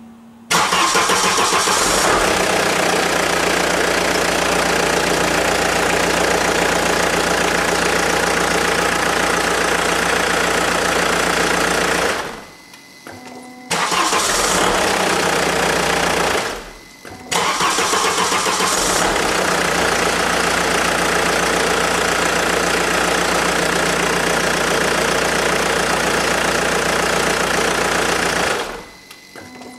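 Saab 9-5 2.2 TiD direct-injection diesel engine started three times in a row: each time a second or two of brisk cranking, then the engine runs steadily, and it is switched off after about 12 s, 3 s and 11 s. With extra heavy starter cables fitted, the starter spins at full speed and the engine catches at once, where it used to struggle to start.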